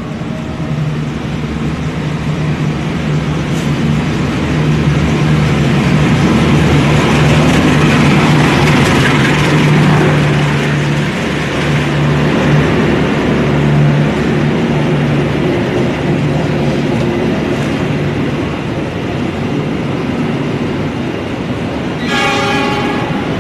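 Diesel-hauled passenger train running through a station without stopping. The locomotive's engine drone and rumble build to their loudest as it passes, then the carriages' wheels rumble steadily along the rails. A short high-pitched tone sounds near the end.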